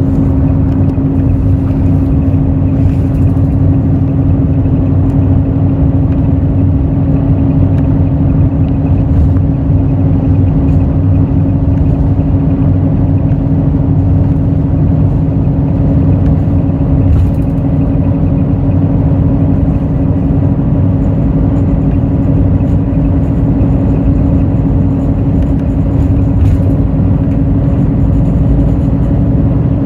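Hino J08E-VD inline-six diesel engine of a Hino RN8JSVU bus running at a steady speed, heard inside the bus together with road rumble. The engine hum holds one pitch throughout, with a few faint clicks of cabin rattle.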